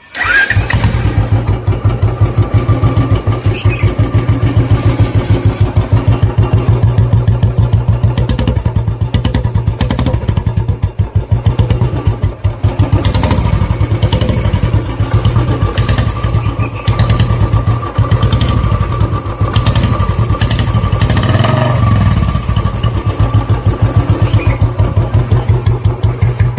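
Motorcycle engine idling with a steady, even low thump, blipped briefly about two-thirds of the way in.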